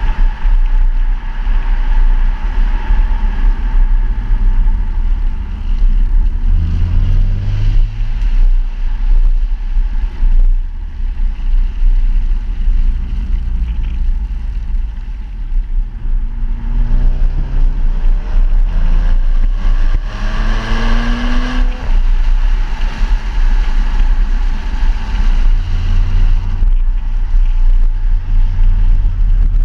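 Audi S4 3.0-litre supercharged V6 through a Scorpion exhaust while the car is driven, over a steady deep rumble. The engine note rises under acceleration twice, briefly about five seconds in and more strongly about two thirds of the way through, then settles back to cruising.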